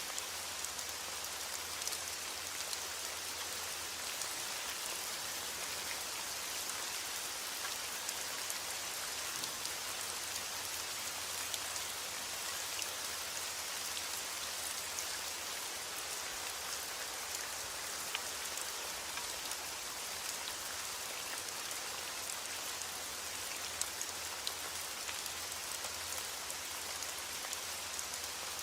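Steady rain falling, a dense even hiss of drops pattering on a surface with fine individual drop ticks throughout; no thunder.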